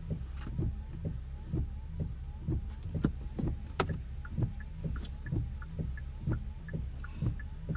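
Windshield wipers sweeping back and forth across a wet windshield, heard from inside the car: a repeated knock about once or twice a second over a steady low hum.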